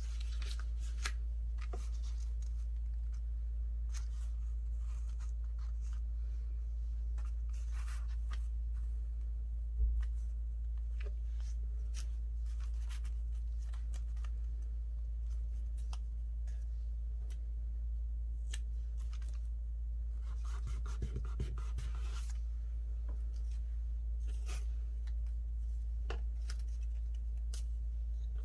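Paper being cut with scissors and handled: scattered small snips, clicks and rustles over a steady low hum.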